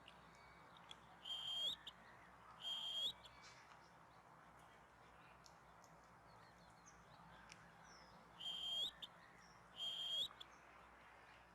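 A bird calling: four short, high calls in two pairs, each pair about a second and a half apart, with a long gap between the pairs, over a faint steady outdoor background.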